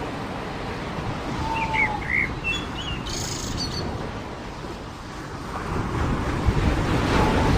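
Surf washing on a beach with a steady rush of wind and water, a few short bird chirps a couple of seconds in, and a wave swelling louder near the end.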